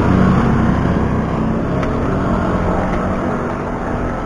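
A motor vehicle engine running steadily, with a low rumble of wind and road noise, slowly fading.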